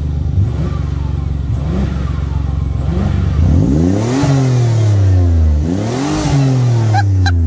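Nissan 300ZX twin turbo's 3.0 V6 idling with a few light throttle blips, then revved hard twice while stationary, each rev climbing quickly and sinking back to idle.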